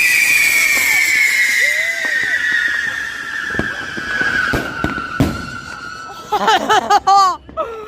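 A whistling firework giving one long, steady whistle that slowly falls in pitch over about six seconds, with a few sharp pops partway through. It cuts off near the end, where short whooping voices come in.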